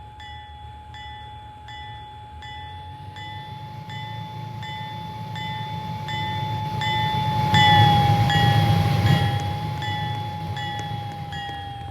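A freight train's locomotive horn held on one steady note while a crossing bell rings about twice a second. The train's low rumble builds to its loudest about eight seconds in and then fades as the locomotive passes, and the horn's pitch drops slightly at that moment.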